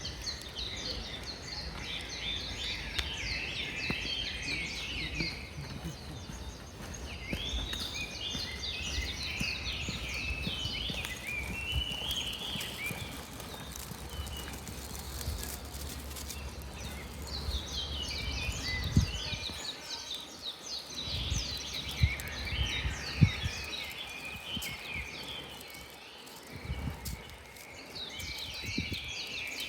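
Wild birdsong: bursts of quick chirping and warbling phrases that come and go every few seconds over a low outdoor rumble. A few soft low thumps come about two-thirds of the way through.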